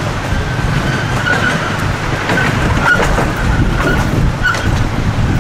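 Steady rumble of a small amusement-park train running on its track, with faint clicks and a thin high tone running through it.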